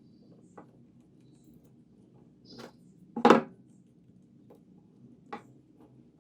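A few scattered knocks and clinks of hard objects, one much louder than the rest a little past the middle, over a faint low hum.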